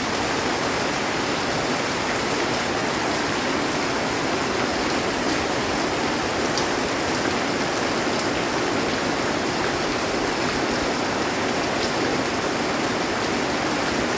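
Heavy rain falling steadily on a metal roof, an even hiss with no break.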